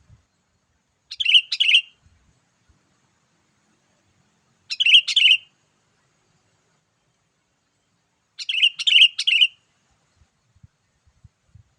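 Sooty-headed bulbul (kutilang) singing: three short song phrases, each under a second long, spaced about three and a half seconds apart.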